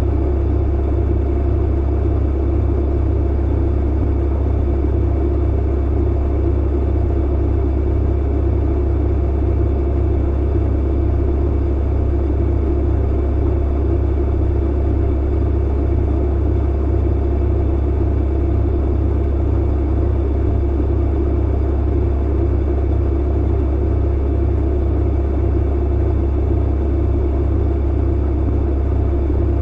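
Tumble clothes dryer running: a steady low hum and rumble that does not change.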